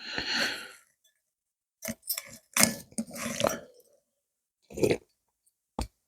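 Close-up mouth sounds of a person drinking and chewing, in several short bursts with gaps between them, and a sharp click near the end.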